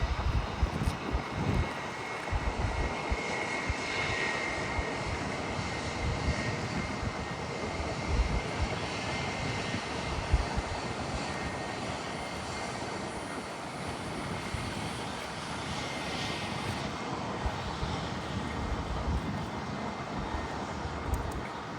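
Jet airliner engines running with a steady, even noise, and gusts of wind buffeting the microphone.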